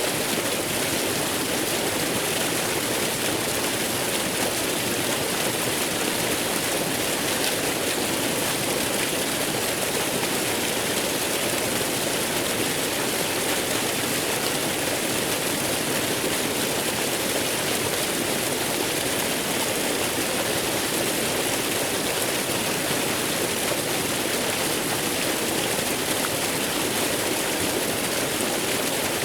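Waterfall: water falling and rushing in a steady, even roar of noise with no changes.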